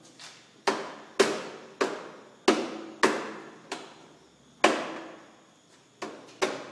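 About ten sharp knocks at uneven intervals, each ringing briefly and dying away with an echo.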